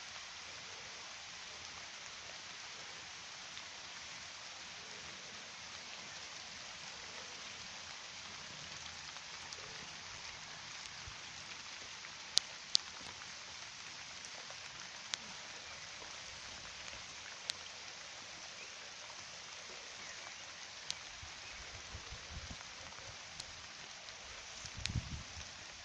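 Steady rain falling on a garden pond's water, an even hiss with now and then a sharper single drop click. A few low bumps come near the end.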